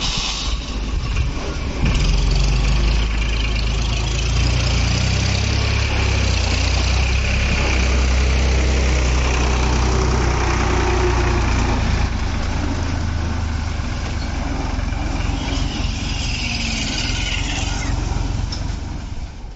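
Express passenger train rushing past at speed: a loud, steady rumble with a dense rush of rail noise, easing slightly after about twelve seconds.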